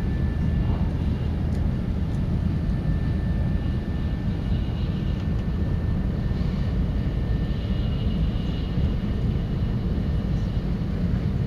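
Steady low rumble of a Shinkansen bullet train running at speed, heard from inside the passenger cabin, with a faint steady high whine above it.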